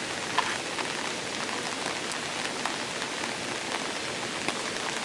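Rain falling steadily: an even hiss with many scattered sharp ticks of individual drops.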